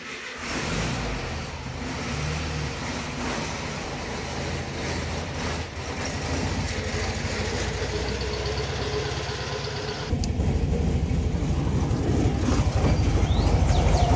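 Volkswagen Beetle's air-cooled flat-four engine running steadily at idle, then louder and heavier from about ten seconds in.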